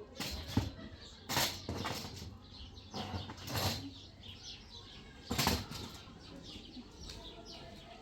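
Bird wings flapping in four short bursts, over small birds chirping throughout.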